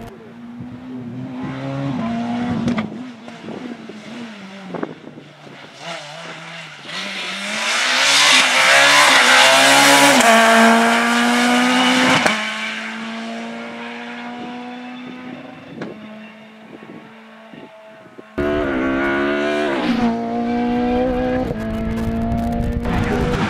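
Rally car engine revving up and down through gear changes as the car approaches, passes loudest with tyre noise and some squeal, then fades away. An abrupt cut about three-quarters of the way in brings in another rally car revving hard.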